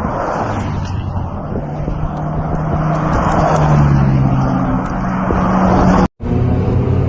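Car engine running, with a steady low hum over road noise, getting louder over the first few seconds. It drops out abruptly for a split second about six seconds in, then carries on.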